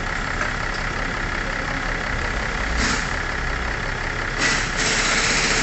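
BMW X5 engine idling steadily, kept running for the transmission fluid level check. A short hiss comes about three seconds in, and a louder, longer one starts near the end.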